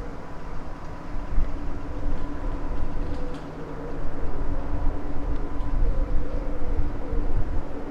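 Class 55 Deltic D9015's twin Napier Deltic two-stroke diesel engines running: a steady drone over a low rumble, growing louder about four seconds in.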